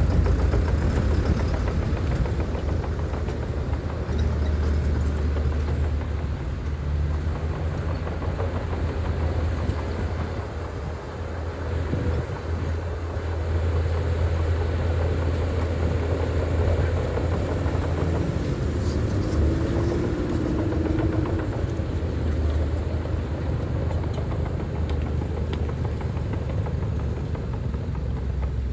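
Heavy diesel engine of earthmoving machinery running steadily with a low rumble.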